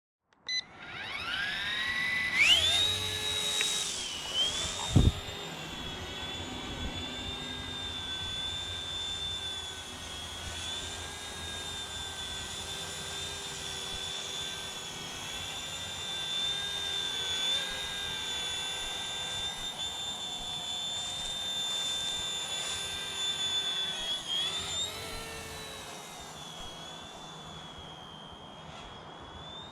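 Small battery-powered RC helicopter spooling up, its whine rising in pitch over about two seconds, then holding a steady high whine as it flies. There is a sharp click about five seconds in, and a brief wobble in pitch near the end, after which it goes on a little quieter.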